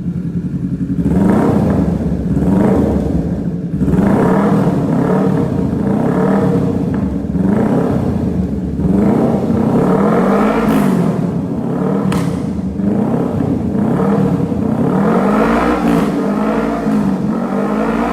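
Kawasaki Z650's two-cylinder engine running through a full aftermarket exhaust system, revved in quick blips over and over, each rising and dropping back toward idle.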